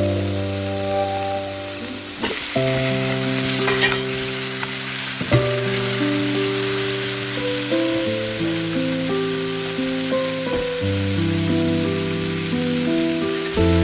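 Food sizzling as it fries in a pan, a steady hiss, with a few sharp clicks of a utensil stirring it. Soft background music with sustained chords plays underneath.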